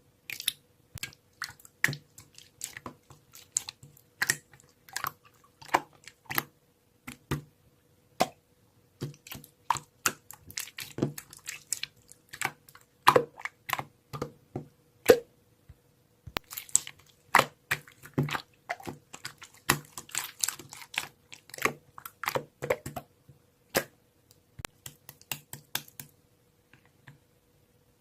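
Quick, irregular clicks and taps coming in uneven clusters, the way typing sounds, over a faint steady hum. The clicks die away about two seconds before the end.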